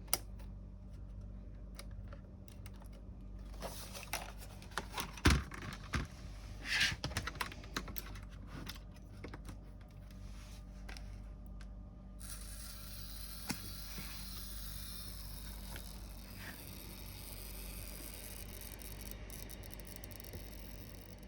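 Scattered clicks and taps, as of hands working on a laptop's plastic case and keys, over a steady low hum. A steady hiss starts about twelve seconds in.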